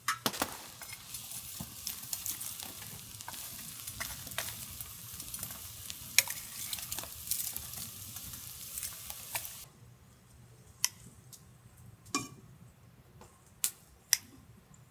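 Food sizzling and frying on a cast-iron cauldron-lid griddle, with scattered clicks of a utensil. The sizzle cuts off suddenly about ten seconds in, leaving a few separate sharp clicks.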